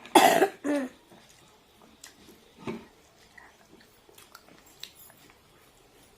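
A person coughs twice in quick succession, a strong cough then a shorter one, at the very start. Faint clicks of eating and chewing follow.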